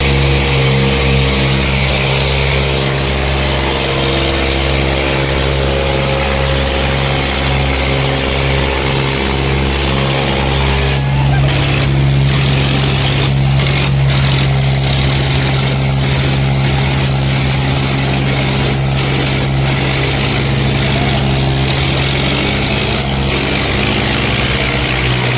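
Eicher 557 tractor's diesel engine running steadily, its sound turning rougher about eleven seconds in.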